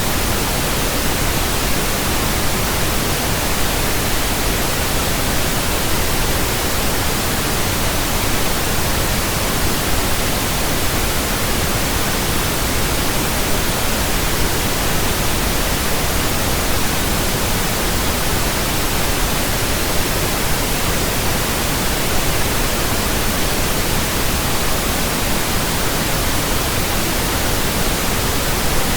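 Steady pink noise test signal from a pink noise generator: an even, unbroken hiss spread from deep bass to the top of the range, played as a burn-in track for new speakers and headphones.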